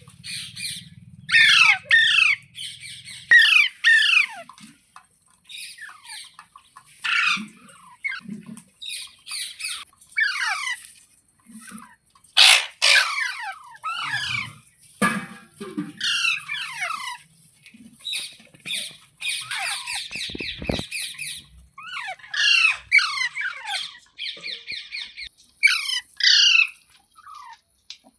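Parrot squawking over and over with short, shrill screeches that slide downward in pitch. There are a few quick chattering runs and one louder, harsher screech about halfway through.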